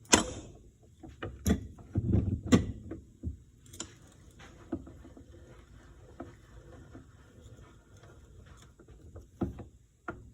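Hand tools and metal parts clanking and knocking during wrench work under the car: a sharp knock at the start, a few more over the next four seconds, then quieter handling with another knock near the end.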